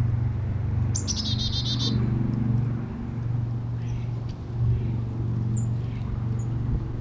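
A songbird sings one rapid, high trill of about ten quick notes about a second in, followed later by a few short, high single chirps. A steady low hum runs underneath and is louder than the bird.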